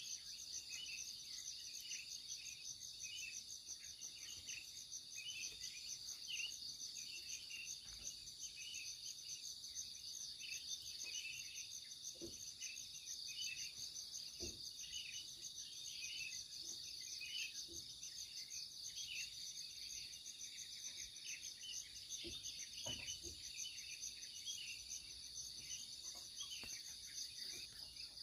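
A steady chorus of insects, a high pulsing trill that does not let up, with scattered short bird chirps over it.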